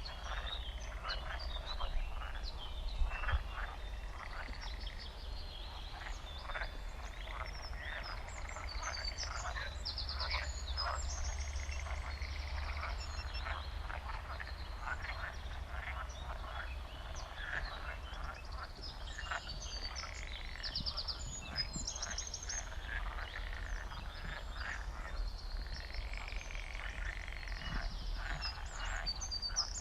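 A chorus of frogs croaking: many short calls overlapping continuously, with brief high-pitched trills scattered over them.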